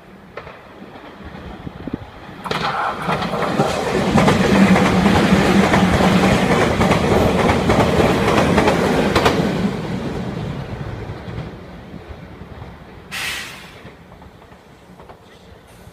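Meitetsu electric train running past close by, its wheels clattering over the rail joints. The sound builds from about two seconds in, is loudest mid-pass, then dies away.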